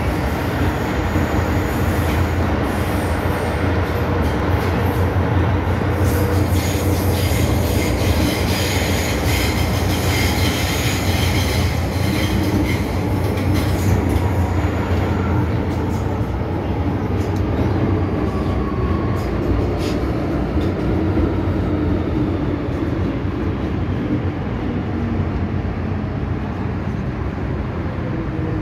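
MTR M-Train metro train running, a steady low rumble of wheels on rail, with wheels squealing from about six to fourteen seconds in. Near the end a tone falls in pitch as the train slows.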